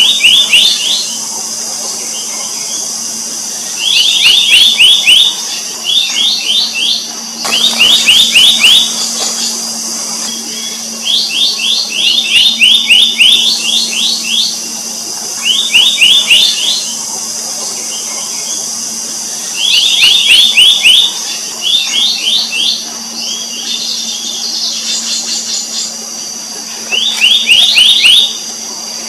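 Black-naped monarch calling: quick bursts of five to eight rising whistled notes, repeated every few seconds. Under them runs a steady high-pitched drone and a faint low hum.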